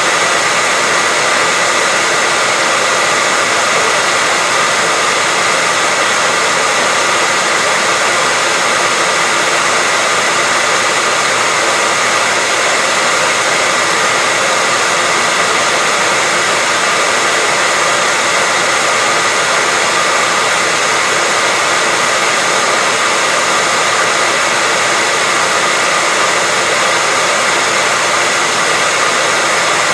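Hairdryer running steadily: a constant airy whoosh with a faint whine near 2 kHz, unchanging throughout.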